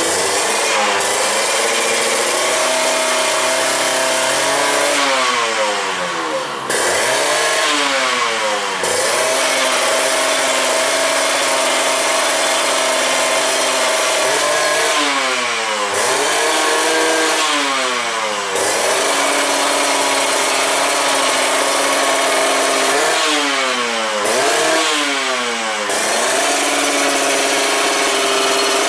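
Kawasaki Ninja 150 R's single-cylinder two-stroke engine idling through an aftermarket Vyrus stainless underbelly exhaust. Three times it is blipped twice in quick succession (about five, fifteen and twenty-three seconds in), rising in pitch and falling back to a steady idle, as a check of the freshly set carburettor and ignition.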